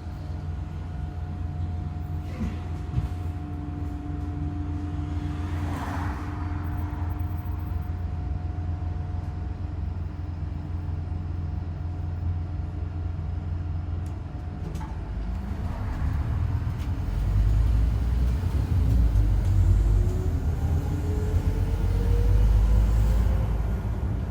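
Scania N230UD double-decker bus idling with a steady whine over the engine hum, then pulling away about fifteen seconds in, the engine growing louder and a whine rising in pitch as it gathers speed. The uploader takes the strange howl for a dodgy bearing or worn-out tyres.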